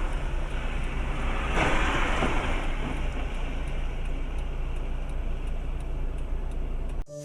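Steady vehicle noise, a low rumble with a louder rushing swell about one and a half seconds in, cutting off abruptly near the end.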